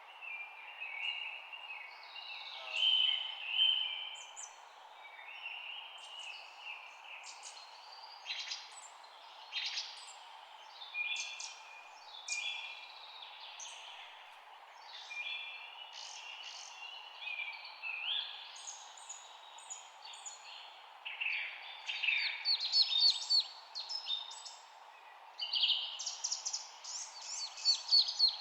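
Several songbirds chirping and singing, with short calls and trills overlapping; the chorus grows busier and louder over the last few seconds with a fast run of repeated chirps. A faint steady hiss lies underneath.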